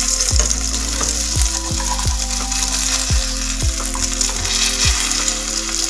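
Egg-and-potato omelette sizzling steadily in hot oil in a frying pan, with a spatula scraping under it to lift and flip it.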